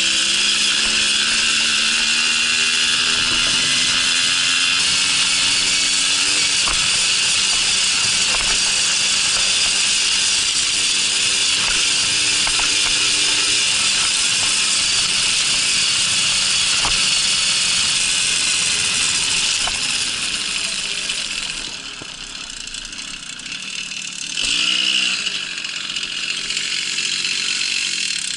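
Babetta moped's small two-stroke engine running under load while riding, under a loud steady hiss. The engine pitch rises over the first few seconds, then holds steady. Near the end the engine eases off and briefly revs up again before the sound cuts off.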